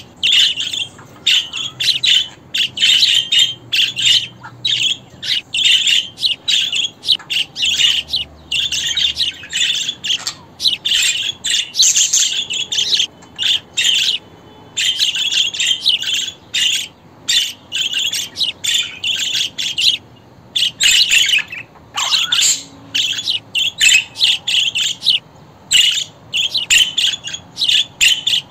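Budgerigars chattering and warbling: a steady stream of quick, high chirps and squawks with only brief pauses.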